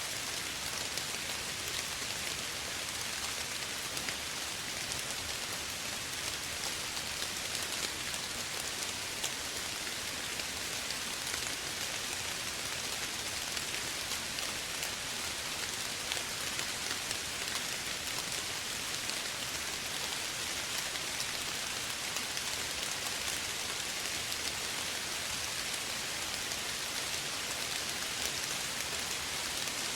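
Steady rain falling, an even hiss of many fine drops with no thunder or distinct splashes.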